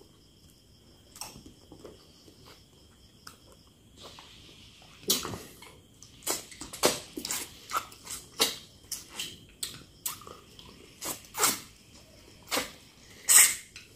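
Close-up mouth sounds of eating goat stew with the fingers: wet smacking and chewing that start about five seconds in as a quick run of sharp smacks, the loudest near the end.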